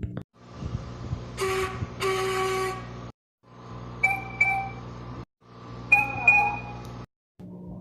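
Three short steam-locomotive whistle clips in a row, separated by brief gaps. Each is a pair of short toots over a steady low hum: a lower-pitched whistle first, then two higher-pitched whistles.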